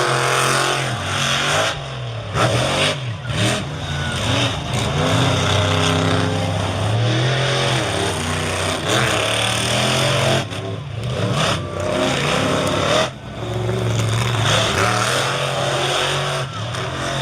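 Monster truck engines revving hard, their pitch climbing and dropping again and again, with short breaks in the noise about two, ten and thirteen seconds in.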